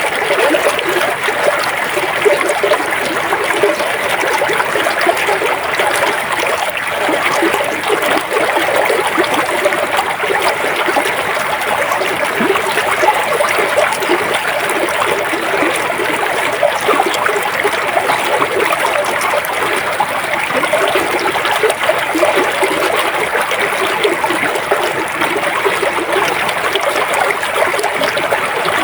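Flowing river water: a steady, unbroken rush with no pauses or changes.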